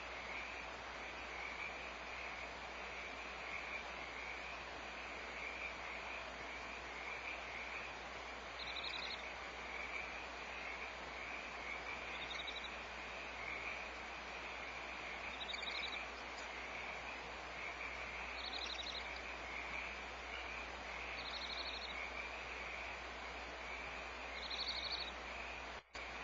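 A steady night chorus of frogs calling continuously, with a short, higher-pitched pulsed call repeating about every three seconds from about a third of the way in. The sound cuts out for an instant near the end.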